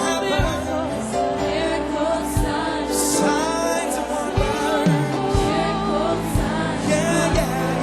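Live gospel worship music: a band with sustained keyboard chords and drum beats under wavering singing voices.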